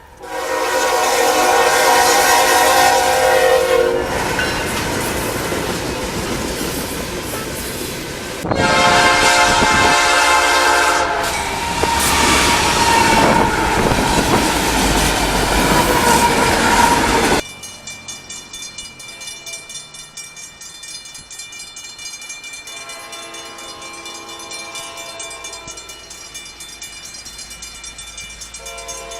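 Commuter train horn blowing two long blasts while the train passes at speed, its wheels clattering over the rails. About 17 seconds in, the loud passage cuts off abruptly. It gives way to a quieter, steady ringing of level crossing bells and a fainter horn sounding twice.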